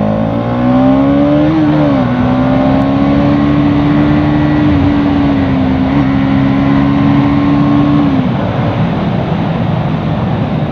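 Bajaj Pulsar NS200's single-cylinder engine revving up over the first second or so, then holding a steady pitch under a constant rush of wind and road noise, and easing off about eight seconds in.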